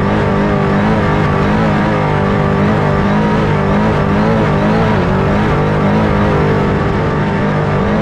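Off-road truck engine running hard and continuously, its revs rising and falling.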